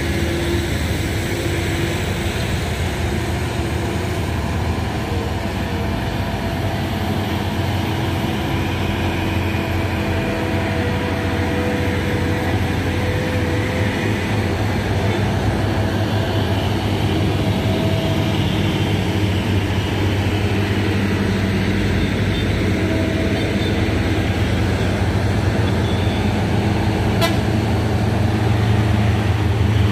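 Heavy trucks' diesel engines running on a climb, a continuous low rumble that grows louder near the end, with horns sounding several times for a few seconds each.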